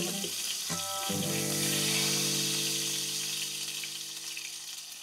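Flour-dusted chicken breast searing in hot oil and rendered pancetta fat in a frying pan: a steady sizzle, loudest about two seconds in and easing off toward the end. Background music holds a low chord underneath.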